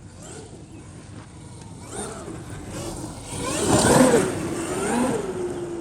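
Traxxas XRT RC truck's brushless electric motor whining, its pitch rising and falling with the throttle and loudest about four seconds in.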